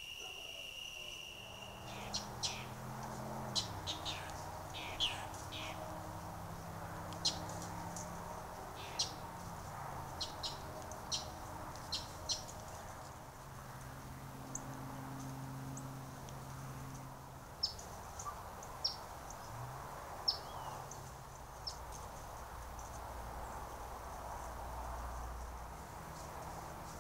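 Wild birds giving many short, sharp chirps scattered through the morning, over a low steady hum. At the very start, a steady night cricket trill stops about a second in.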